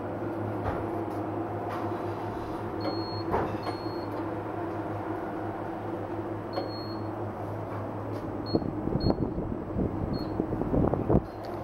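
Wheel balancer humming steadily while a wheel is checked for bends and runout, with short high electronic beeps several times. A run of knocks and clatter comes near the end.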